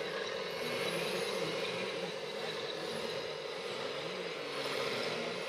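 Radio-controlled model trucks and machinery running, giving a steady mechanical hum with engine-like pitches that rise and fall.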